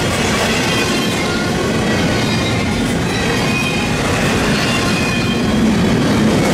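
Intermodal freight train's well cars rolling past close by: a steady rumble of steel wheels on rail, with short high wheel squeals coming and going.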